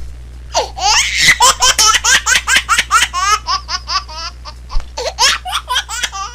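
A baby laughing in a long run of quick, high-pitched bursts, several a second, starting about half a second in.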